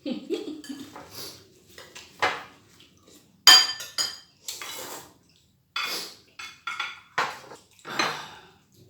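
Cutlery clinking and scraping against plates and dishes at irregular intervals, with one loud ringing clink about three and a half seconds in.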